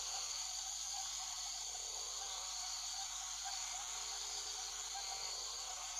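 Steady, high-pitched insect chorus, a continuous even hiss of forest ambience.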